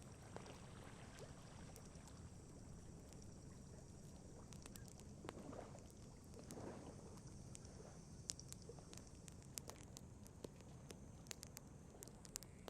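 Faint wood campfire crackling: scattered sharp pops and snaps, more frequent in the second half, over a low steady background noise.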